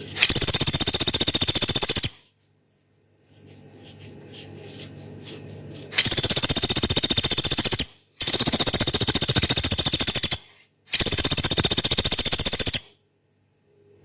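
Pelatuk beras, a small woodpecker, giving four long, rough, high-pitched rattling trills of very fast repeated notes, each lasting about two seconds, with short gaps between them.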